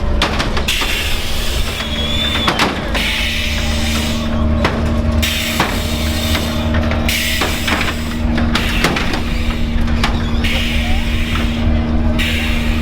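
Loud car-stereo music with a heavy bass rumble, mixed with vehicle noise and scattered knocks. Bursts of hissing start and stop abruptly several times.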